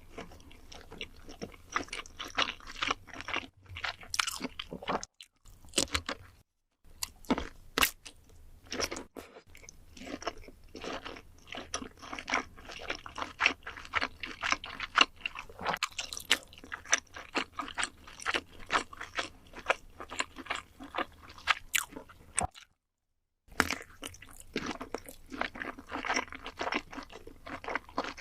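A person biting and chewing food close to the microphone: a dense run of short, crisp clicks and crunches, broken twice by brief silences.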